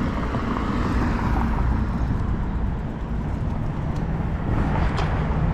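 Wind buffeting the microphone and tyre rumble from a bicycle being ridden, a steady low rush with a faint tick near the end.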